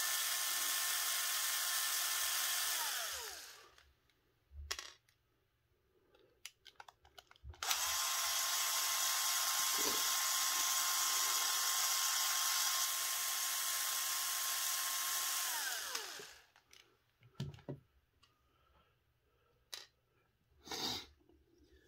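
Cordless electric screwdriver backing screws out of an RC transmission case: two runs of a steady high whine, each falling in pitch as the motor spins down. The first ends about three seconds in and the second runs from about eight to sixteen seconds, with small clicks of screws and parts being handled between and after.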